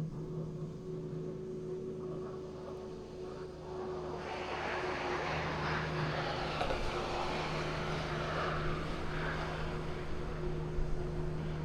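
Heavy truck's diesel engine droning steadily. About four seconds in, a rushing noise rises over it and fades out again some five seconds later.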